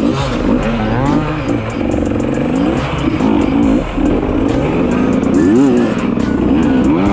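Dirt bike engine sounds revving up and down over and over, each rise and fall about a second long.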